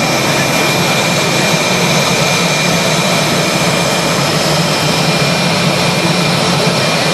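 Lockheed C-130J Hercules turboprop engines running, a steady loud drone with a thin high whine that holds even throughout.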